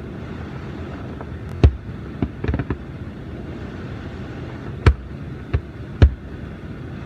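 Fireworks shells bursting at a distance: about six separate sharp bangs spread over several seconds, a few of them in a quick cluster, over a steady low background noise.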